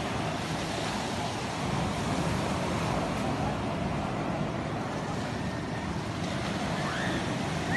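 Sea waves washing steadily onto the shore, with wind.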